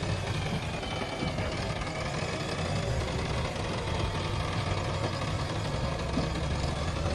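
Diesel engine of a JCB 3DX backhoe loader running steadily, a continuous low rumble.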